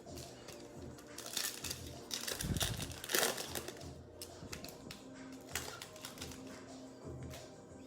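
Trading cards being handled: a run of quick clicks and rustles as cards are flipped and slid across one another, busiest and loudest between about one and three and a half seconds in.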